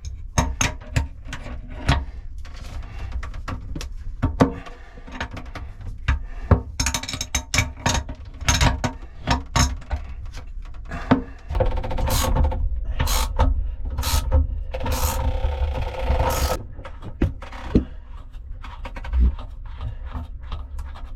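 Hand tools working the mounting bolts of an old boat windlass: irregular metallic clicks, knocks and ratcheting, with a few longer stretches of scraping and grinding about a third and two-thirds of the way through.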